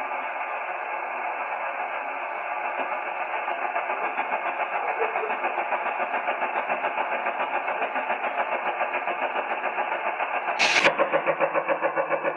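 The 'new' Russian Woodpecker over-the-horizon radar on 34 MHz, received on a 1939 Hallicrafters S-20 shortwave set: rapid, regular pulsing several times a second through a band of hiss. A sharp click near the end, after which the pulsing grows louder and more distinct.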